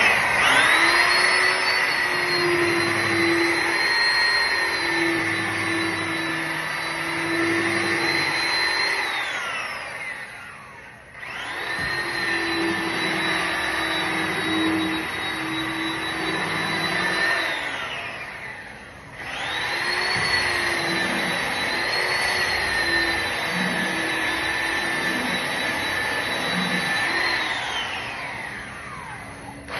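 A high-speed electric motor runs with a steady whine three times, each run lasting several seconds. After each run it winds down with a falling pitch.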